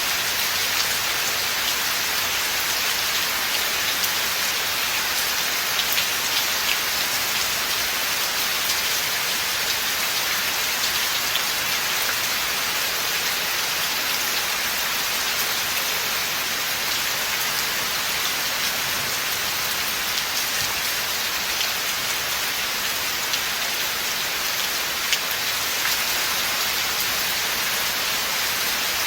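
Steady rain falling in a forest, an even hiss with scattered individual drops ticking on nearby leaves and surfaces.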